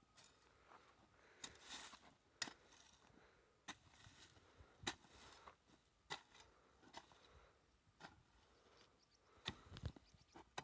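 Faint, sharp knocks or strikes, roughly one a second, over quiet background.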